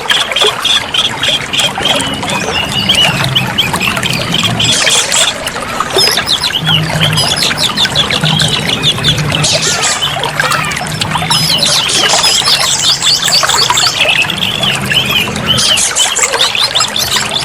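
Oriental magpie-robin (kacer) singing continuously in rapid, varied chirps and trills over a background of trickling water.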